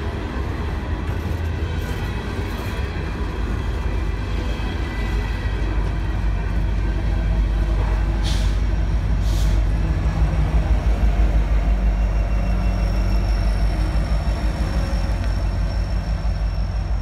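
An empty coal train's hopper cars rolling past with a steady rumble of wheels on rail. It gives way to the deeper, pulsing throb of the rear distributed-power diesel locomotives, an SD70ACe among them, loudest a little past the middle. Two short hisses come about eight and nine seconds in.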